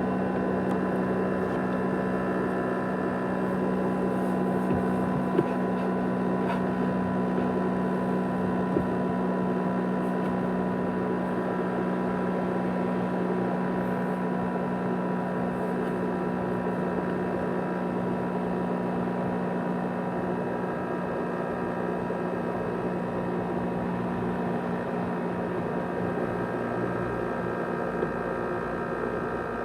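500 GB USB hard disk drive running with a steady whirring drone of several held tones and a few faint clicks. This is the loud noise called a rattling, jet-engine sound.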